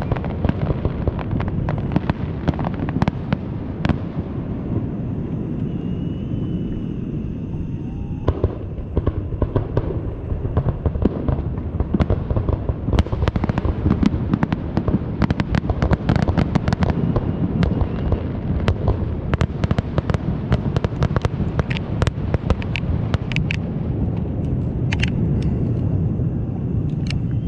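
Fireworks display going off: a continuous run of booms and dense crackling reports, many sharp cracks one after another over a low rumble.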